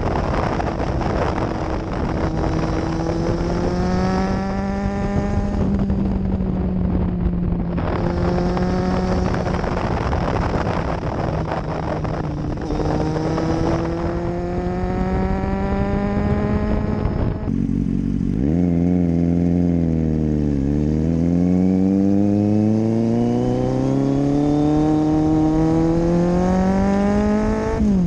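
Kawasaki Z800 inline-four engine heard close to its exhaust, accelerating through the gears: the pitch climbs and drops back at each upshift, with wind noise. In the later part the engine note falls as the bike slows, then rises steadily again.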